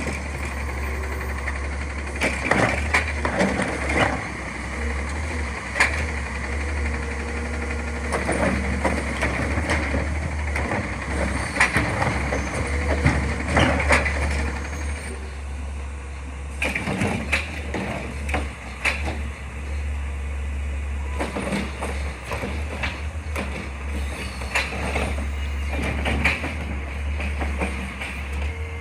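A garbage truck at work: its engine running steadily, with many sharp knocks and clanks over it.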